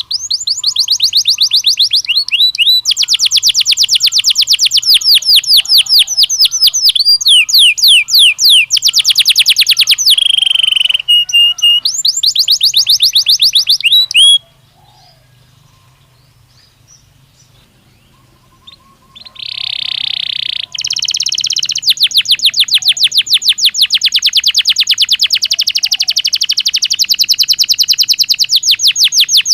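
Belgian canary singing in long, fast trills of rapidly repeated high notes, changing from one trill to the next. The song breaks off about halfway for a pause of about four seconds, then picks up again with one long, even trill.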